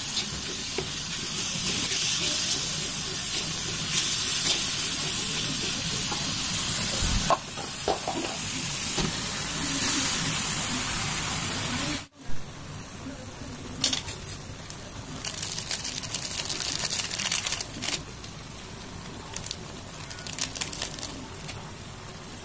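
Spice paste and kaffir lime leaves sizzling in oil in a wok, stirred with a spatula. About halfway through, the loud sizzle stops abruptly. After that there are quieter scattered crackles and spatula scrapes as shredded chicken is worked in the wok.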